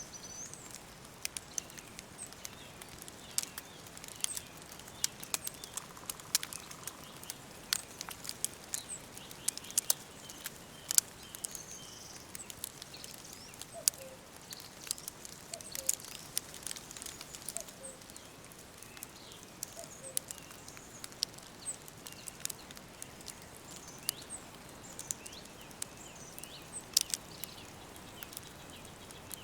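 Forest ambience: small birds chirping and calling over a soft steady hiss, with frequent short, sharp crackling clicks.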